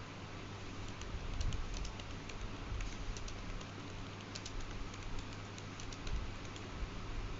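Light, irregular clicking over a steady background hiss and low hum.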